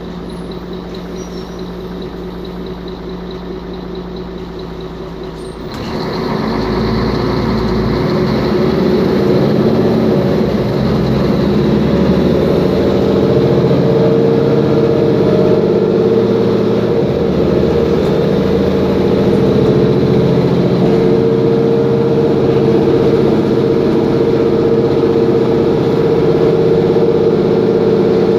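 Mercedes-Benz Conecto G city bus's OM457LA diesel engine and driveline. The bus runs quietly at first; about six seconds in it grows sharply louder as it pulls away, then keeps running under way with a steady whine.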